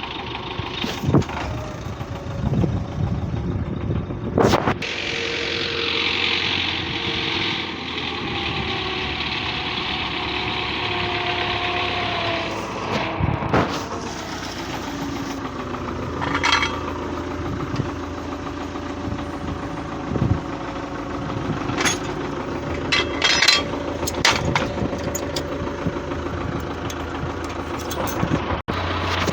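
MTZ-82 (Belarus) tractor's four-cylinder diesel engine running, its pitch shifting now and then, with occasional knocks and clatter.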